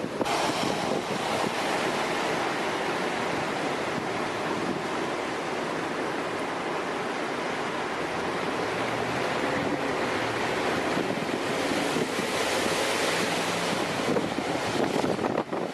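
Steady rushing noise of a tornado, like surf, mixed with wind buffeting the microphone.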